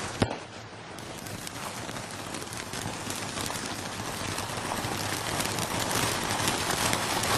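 A sharp firework bang just after the start, then the dense, steady crackle of a burning firework that grows gradually louder.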